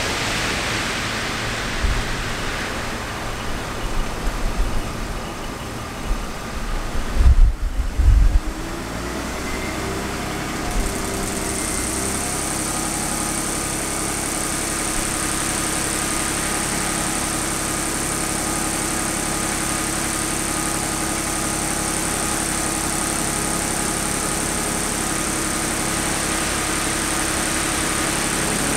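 BMW 5 Series petrol engine converted to LPG, idling, then picking up speed over a few seconds and holding steady at a raised idle of about 1,400 rpm while it switches over to run on LPG. A few loud low thumps about seven to eight seconds in.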